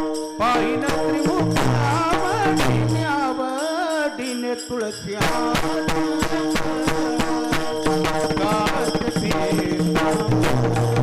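Marathi devotional kirtan music: a wavering sung melody over a held drone, with jingling percussion and drum strokes keeping a steady beat. The melody falls away about five seconds in, leaving the drone and percussion.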